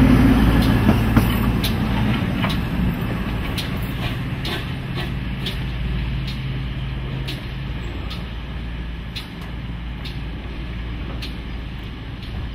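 Trains moving slowly: a low, steady engine rumble that fades gradually, with scattered sharp metallic clicks.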